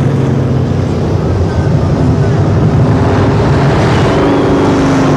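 Several V8 race-truck engines running together as the pack circulates at caution speed. Their engine tones overlap at slightly different pitches that drift up and down.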